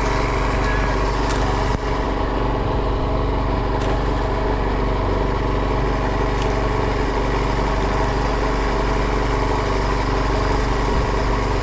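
A small fishing boat's engine running steadily at an even speed.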